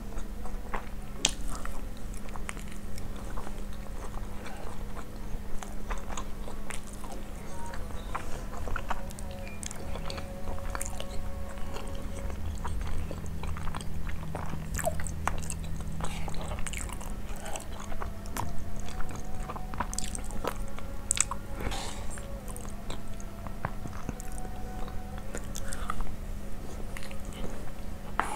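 Close-miked chewing of a mouthful of spiced basmati rice, with many short wet mouth clicks and smacks. A steady low hum runs underneath.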